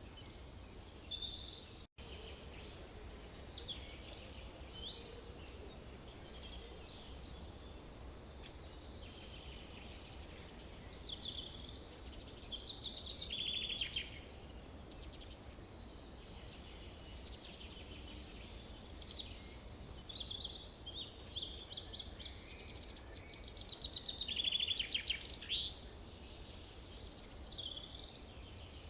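Chorus of forest birds singing and calling, many short chirps and whistles overlapping, with a louder rapid trill about midway and another near the end. A faint low rumble runs underneath, and the sound cuts out for an instant about two seconds in.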